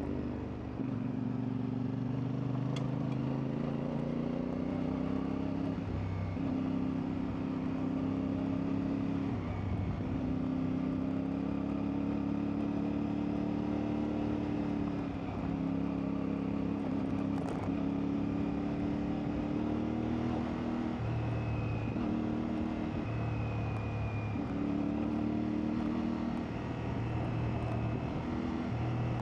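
CFMoto 450MT's parallel-twin engine running under the rider. Its note rises with the throttle and drops back every few seconds as the bike is ridden over uneven off-road ground.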